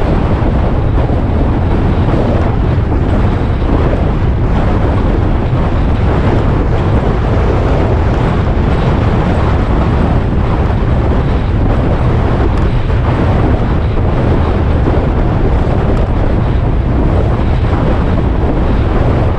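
Steady wind rushing over the microphone of a moving motorcycle, with the motorcycle running at a steady speed under the wind noise.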